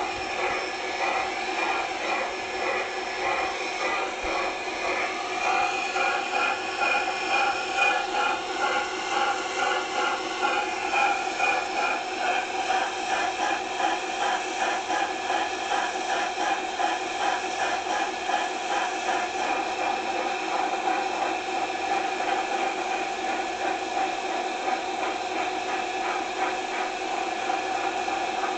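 Steady mechanical running sound of a train: a constant whir with a fast, even clicking rattle that grows more distinct about six seconds in.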